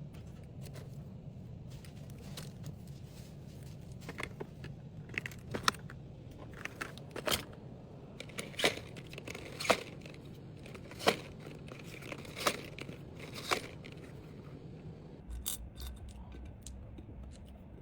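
Small items being handled and packed: a series of sharp clicks and taps, roughly one every second or so through the middle, with some rustling, over a steady low hum.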